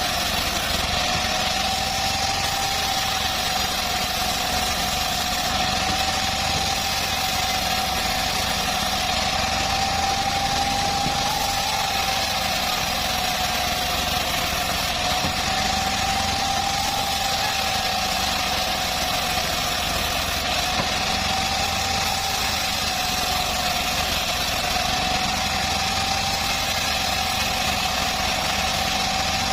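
Engine-driven home-built bandsaw sawmill running steadily, with one clear whine that wavers slightly in pitch over a constant machine noise.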